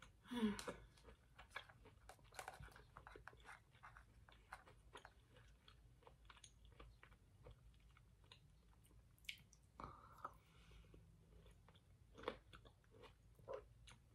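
Faint, close chewing of peeled orange segments: soft, irregular wet mouth clicks and smacks, with a louder bite about half a second in.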